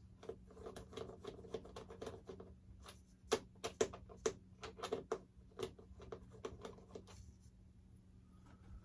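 Irregular light clicks and taps of a screwdriver and small screws against the plastic parts of a model jet, several a second, dying away about seven seconds in.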